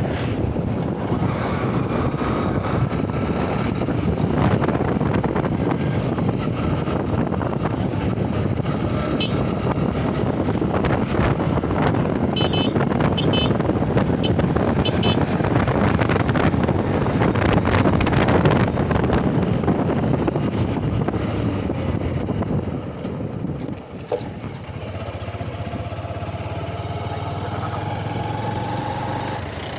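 Honda Shine SP 125 motorcycle being ridden on the road, its engine running under a thick rush of wind and road noise. Near the end the level drops briefly, then a steadier, lower engine hum carries on.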